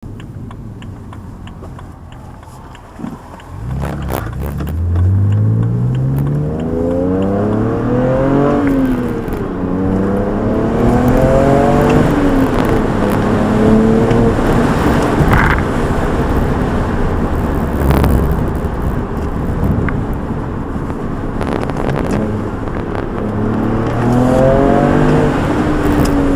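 BMW 335i's N54 twin-turbo inline-six with an AE Performance exhaust and high-flow cats, heard from inside the cabin. It runs quietly at first, then pulls hard from about three seconds in, its pitch climbing and dropping back at a gear change, then climbing again. It settles to a steadier drone and starts another climbing pull near the end.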